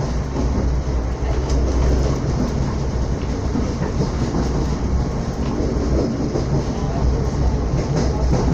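Srbija Voz passenger train running at speed, heard from on board: a steady rumble of wheels on the rails with a constant low hum underneath and faint clicks from the track.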